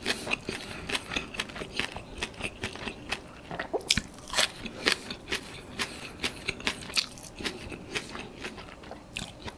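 Close-up mouth sounds of eating: chewing shrimp and pad thai with wet, crackly crunches several times a second. About four seconds in comes a louder crisp crunch as a raw spring onion stalk is bitten off and chewed.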